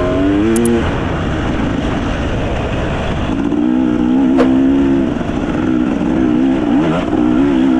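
Enduro dirt bike engine running, its pitch dipping and rising as the throttle is worked. It is rough and unsteady for the first few seconds, then settles into a steadier note.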